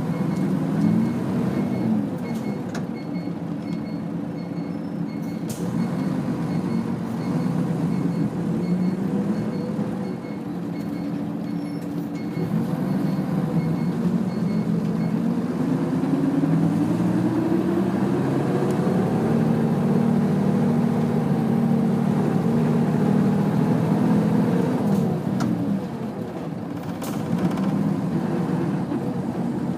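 Nissan Diesel UA city bus (KL-UA452KAN) heard from inside the cabin while under way: the diesel engine climbs in pitch through the middle as the bus accelerates, holds, then drops off near the end. A faint, regular beeping sounds through the first half.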